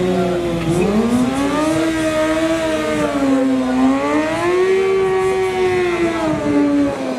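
Stunt motorcycle's engine held at high revs during a tyre-smoking burnout, its pitch swelling up and down slowly and dropping near the end.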